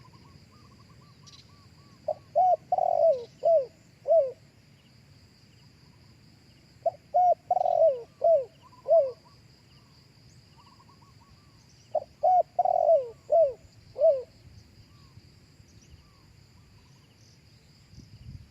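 Spotted dove cooing: three phrases of five or six short coos each, a few seconds apart. A faint steady high tone and a few faint small-bird chirps run beneath.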